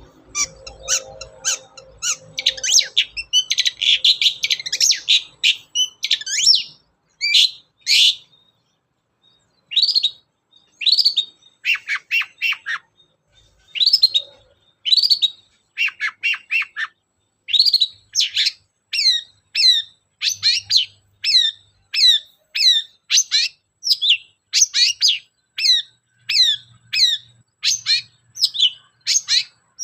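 Long-tailed shrike (cendet) singing: a long run of short, sharp notes that drop steeply in pitch, about one to two a second, with a denser stretch of twittering a few seconds in.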